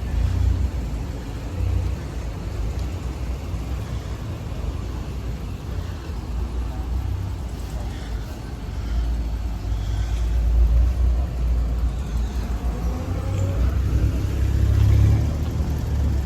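Low rumble of car engines running, swelling and easing a couple of times.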